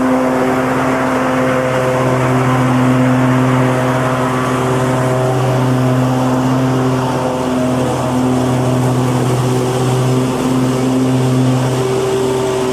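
Lawn mower engine running steadily, a constant drone that wavers slightly in pitch.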